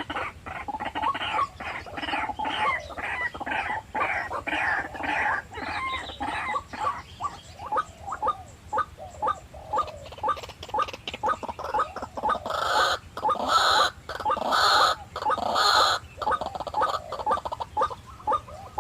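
White-breasted waterhens calling: a rapid string of short, croaking 'kwak' notes, about four to five a second. Four louder, harsher calls come near the end.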